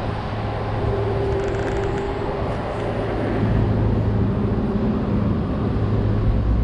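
Steady vehicle engine noise: a low rumbling hum that grows a little louder about halfway through.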